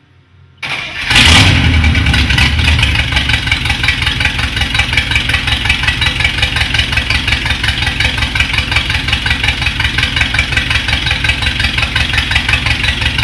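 Freshly restored 1954 Buick Roadmaster's 322 Nailhead V8 comes in suddenly about half a second in, swells briefly, then settles into a steady idle with an even, rapid pulse.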